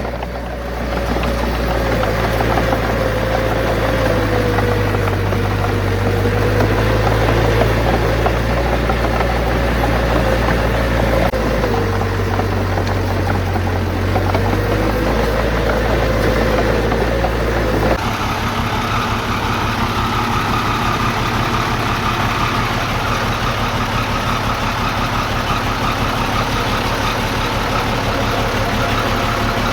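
Heavy-equipment diesel engines running steadily, with a wavering engine note. About two-thirds of the way through, the sound changes abruptly to a different engine with a faster low pulse and a higher whine.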